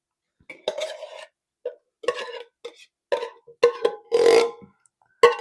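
Metal spoon scraping and knocking inside a tin can to get out the last of the canned mixed vegetables, about seven strokes with a short metallic ring, the longest scrape a little after four seconds in.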